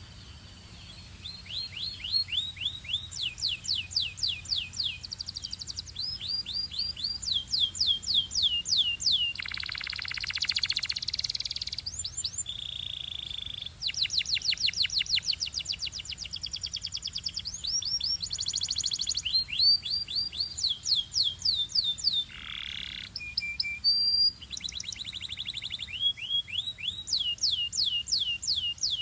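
Belgian canary singing a continuous song of fast trills, each made of rapidly repeated downward-sweeping notes. A few brief held tones and short buzzy phrases come between the trills.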